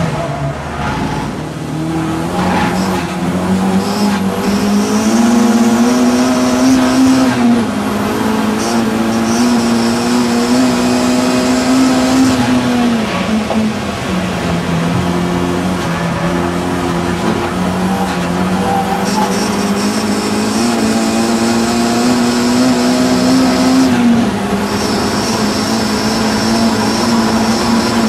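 Audi TT race car's engine running hard at racing speed, its note climbing as it accelerates and dropping back under braking and gear changes, several times over. A high squeal comes and goes on top of it.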